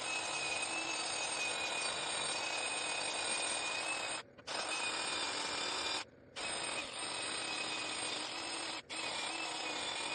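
Electric drill running under load, stripping old paint off metal, with a steady high whine. It runs in four long stretches, stopping briefly about four, six and nine seconds in.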